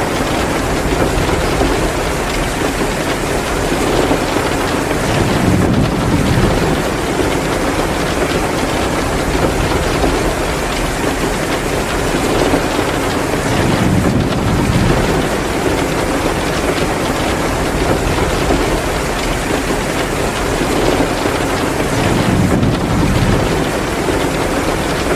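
Heavy rain pouring down in a dense, steady hiss, mixed with the crackle of a wood-burning fireplace. The rain swells slightly about every eight seconds.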